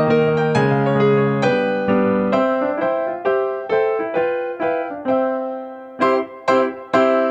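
Background music: a piano or electric-piano tune played as a run of single notes over held chords.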